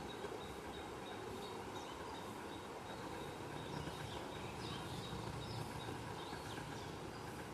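Small birds chirping faintly in short calls, more often about halfway through, over a steady background hiss and a low rumble.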